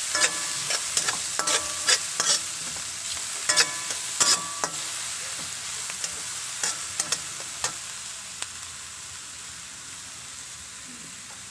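Chopped onion, garlic, chili and tomato sizzling in butter in a honeycomb-textured wok, with a metal spatula scraping and tapping on the pan as they are stirred. The scrapes come thick in the first half and thin out later, and the sizzle fades a little toward the end.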